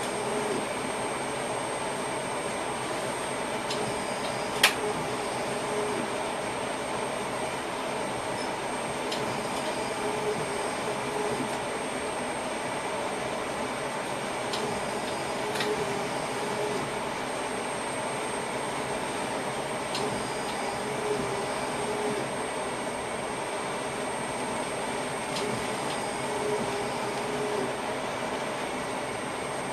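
Steady hum inside an electric passenger train's driver's cab, at an even level with several fixed tones, from the train's equipment and ventilation. A single sharp click comes about four and a half seconds in, with a few faint ticks later.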